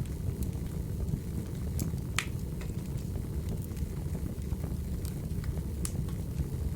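Wood fire burning: a steady low rumble of flames with scattered sharp crackles and pops from the logs, the loudest about two seconds in.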